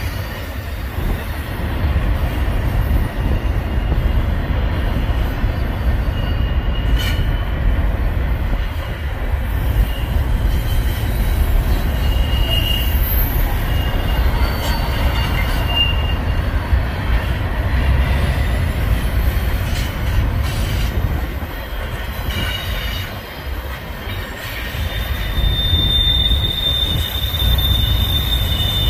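Union Pacific double-stack intermodal train's well cars rolling past, a steady low rumble of wheels on rail. Short high-pitched wheel squeals come now and then, and a longer squeal starts about four seconds before the end.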